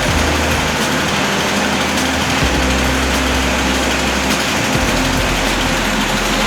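An engine running steadily, a constant mechanical drone with a low hum.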